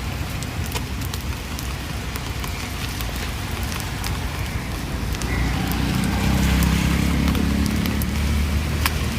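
Street background noise: a steady hiss scattered with short sharp clicks, and a low engine rumble from a nearby vehicle that swells about halfway through and becomes the loudest sound.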